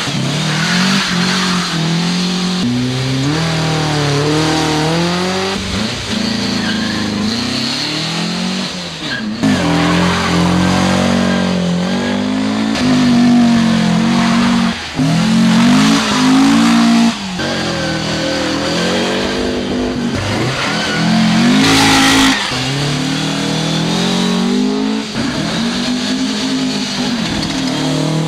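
Air-cooled cars, VW Beetles among them, launching hard and accelerating away in an eighth-mile drag race, one car after another. Each engine revs up, drops at a gear change and climbs again.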